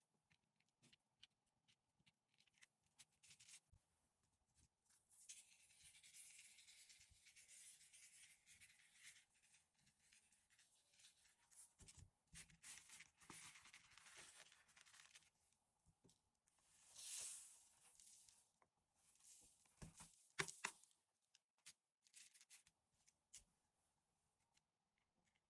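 Near silence with faint scratching and rubbing in a few stretches, and a couple of light taps about twenty seconds in.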